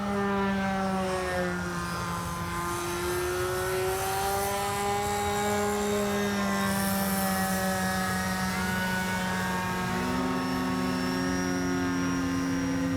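Electric RC aerobatic plane's brushless motor and propeller whining in flight, the pitch slowly rising and falling with the throttle as the plane is held in a hover.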